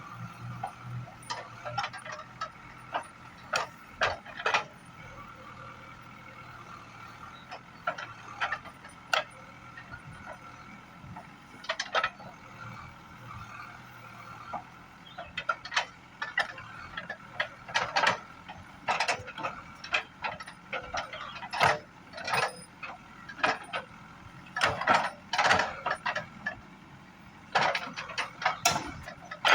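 CAT 424B backhoe loader working: its engine runs with a steady whine, and frequent short clanks and rattles come in irregular clusters, growing busier in the second half. The low engine note fades after the first few seconds.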